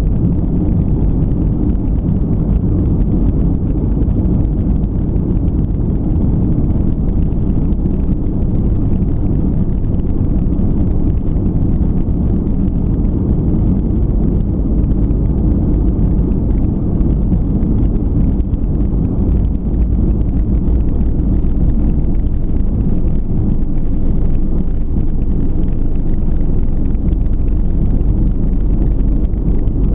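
Steady low rumble of an Airbus A320 heard from inside the cabin: engine and airflow noise running evenly.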